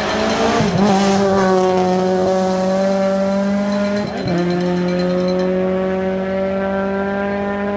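Rally car engine at high revs, held at a nearly steady pitch with two brief dips and recoveries: one about a second in and one about four seconds in.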